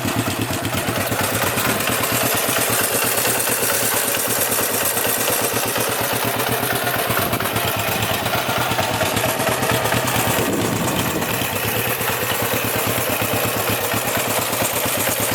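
Honda CB450 'Black Bomber' 444 cc DOHC parallel-twin engine idling steadily, heard close to the exhaust pipes.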